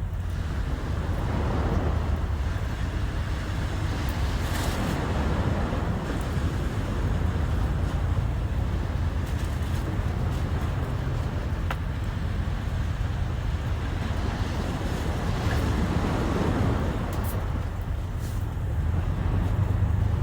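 Sea waves washing in, swelling and fading every few seconds, over a steady low rumble of wind on the microphone.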